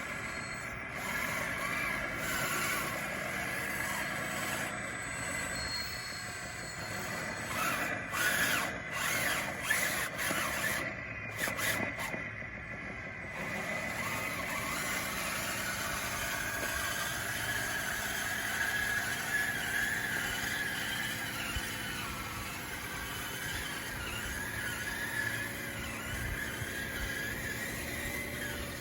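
RC bulldozer's drive motors running with a whine that slowly rises and falls in pitch as it works. A stretch of scraping and clatter comes in the middle.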